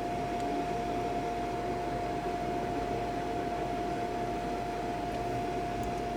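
Monitor 422 kerosene heater in its start-up sequence before the flame lights: a steady fan-like rush with a single steady tone running over it.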